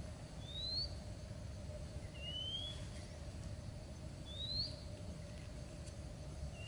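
A bird calling: three short rising whistles, about two seconds apart.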